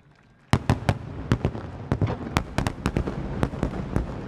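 A rapid barrage of aerial firework shells bursting. More than a dozen sharp, loud booms start suddenly about half a second in and come irregularly, several a second, over a constant low rumble and crackle.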